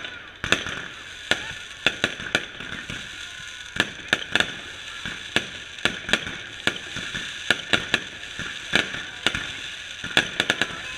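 Aerial fireworks bursting overhead: a rapid, uneven string of sharp bangs and pops from exploding shells.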